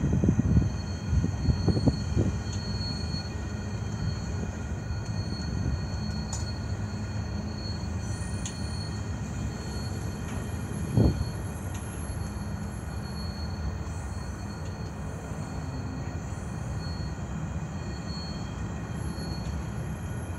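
CN freight train rolling past on jointed rail: a steady low rumble of wheels with several clanks in the first two seconds and one sharp knock about eleven seconds in, over a faint high wheel squeal.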